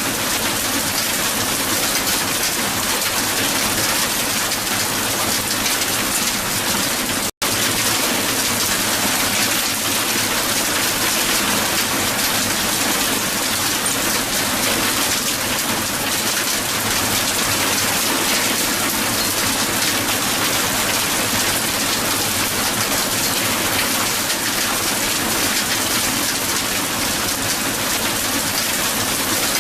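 Hail falling heavily onto the ground: a dense, steady rush of ice pellets striking the surface. The sound cuts out for an instant about seven seconds in.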